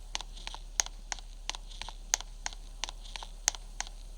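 Steady rhythmic clicking in a repeating cycle: a sharp, loud click about every 1.3 seconds with three softer clicks between.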